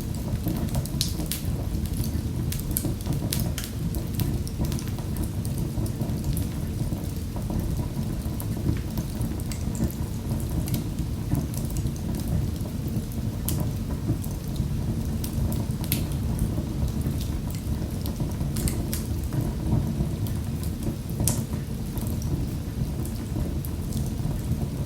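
Wood fire crackling in a fireplace: a steady low rumble of burning with scattered sharp pops and snaps throughout.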